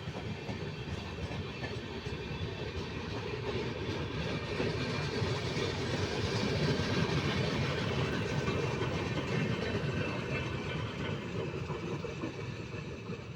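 Indian Railways train running along the track, a steady rumble and rattle of wheels on rail that grows louder to about halfway through, then eases off.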